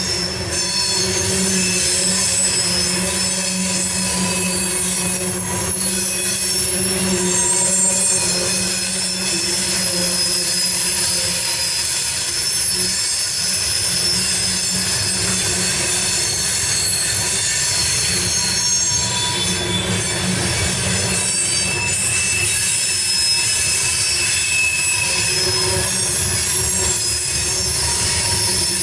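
Loaded coal hopper cars of a CSX freight train rolling past, their steel wheels squealing on the rails over a steady rumble; the high squeals come and go.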